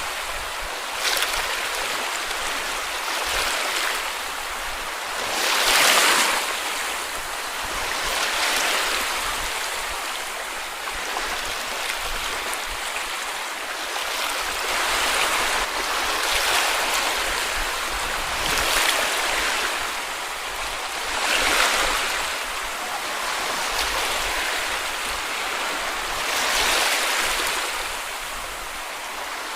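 Small sea waves breaking and washing up on a beach: a steady surf hiss with a wave surging every few seconds, the loudest about six seconds in.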